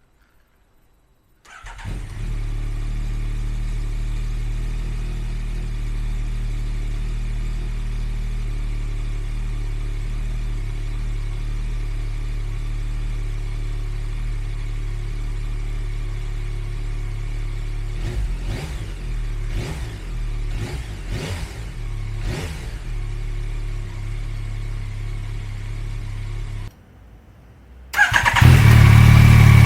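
Yamaha MT-09's 890 cc inline-three engine running through an aftermarket full exhaust: it catches and settles into a steady idle, then is blipped about four times in quick succession. Near the end the sound cuts off briefly and comes back louder.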